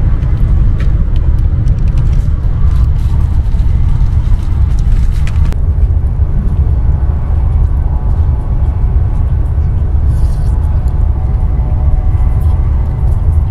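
Steady low rumble of a high-speed train carriage in motion, heard from inside the cabin. Light clicks and crinkles come through during the first five seconds or so.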